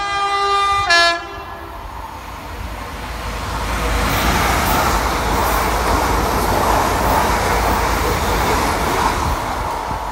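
A Class 350 Desiro electric multiple unit sounds its two-tone horn, which stops about a second in. Then the train runs in close past the platform: the rumble of its wheels and motors builds to a loud steady noise and eases near the end.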